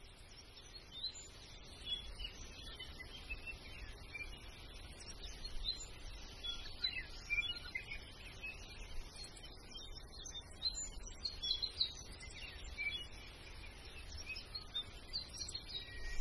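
Birds chirping: many short, scattered calls, over a faint low rumble.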